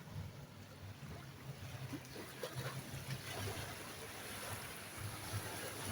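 Low, steady wash of ocean surf running up the beach at the water's edge.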